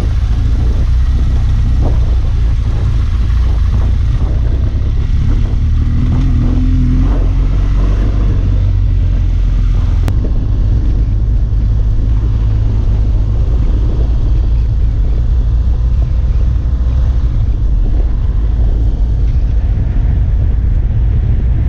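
Dual-sport motorcycle running down an unpaved mountain road, its engine note shifting briefly partway through, under a heavy, steady low rumble of wind on the microphone. A single sharp click about ten seconds in.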